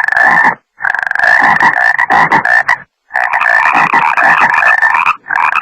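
Frogs croaking loudly in a dense, continuous chorus, broken three times by short gaps of complete silence where the recording is cut.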